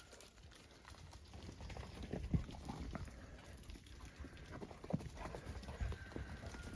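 Irregular steps crunching and knocking on ice-covered ground, with a few sharper knocks about two and a half and five seconds in.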